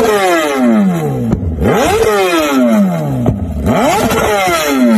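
Kawasaki Ninja ZX-10R inline-four sport bike engine being revved through its exhaust, three times. Each rev climbs quickly in pitch and then falls back slowly over about a second and a half.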